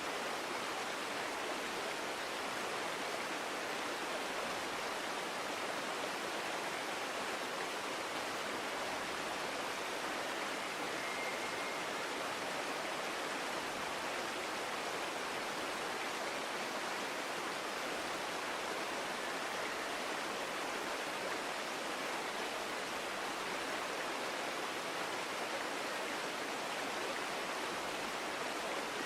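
Small forest stream flowing steadily, an even rushing and babbling of water. A faint, brief bird note sounds once near the middle.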